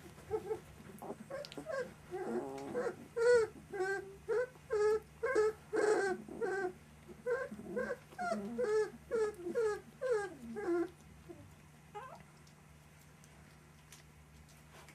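One-month-old puppies whimpering and whining, a string of short pitched cries about two a second that stops about three-quarters of the way through, with one more cry shortly after.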